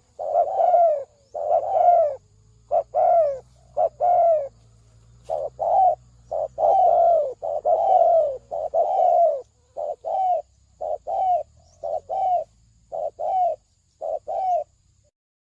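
Spotted dove cooing over and over in quick, short falling phrases, a decoy call for luring doves; the calls stop shortly before the end.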